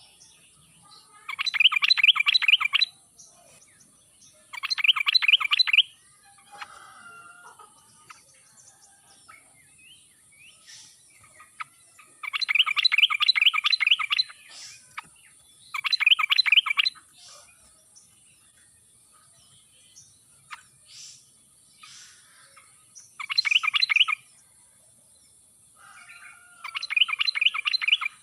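Yellow-vented bulbul (trucuk) song: six short phrases of rapid, bubbling notes, each lasting about a second and a half and spaced a few seconds apart, with fainter calls between them. A steady high-pitched hiss runs underneath.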